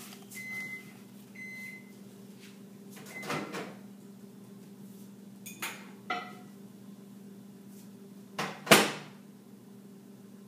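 Microwave oven beeping twice as its cycle ends, over a steady low hum. This is followed by a few knocks and clicks of the door and cup being handled, and a loud bang about nine seconds in as the door is shut.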